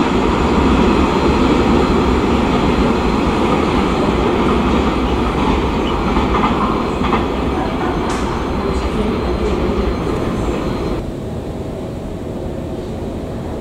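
Freight train rolling away along the track: a steady rumble of wagons on the rails with a faint wheel squeal and a few clicks, easing slowly. About eleven seconds in, it cuts off abruptly to a quieter, more distant train sound.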